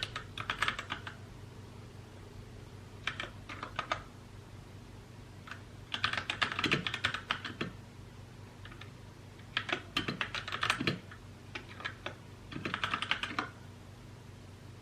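Typing on a mechanical keyboard: short bursts of rapid key clacks separated by pauses of a second or two, six bursts in all, stopping shortly before the end. A faint steady low hum sits underneath.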